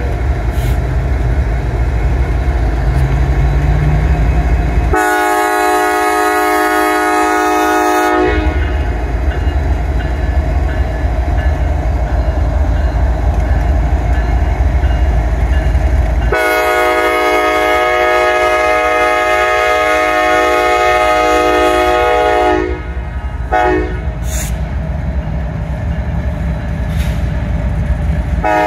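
Norfolk Southern diesel freight locomotives passing close by with a loud, steady low engine rumble and wheels on the rails. The lead locomotive's air horn sounds a long chord-like blast about five seconds in lasting about three seconds, a longer one of about six seconds starting about sixteen seconds in, and a third begins at the very end.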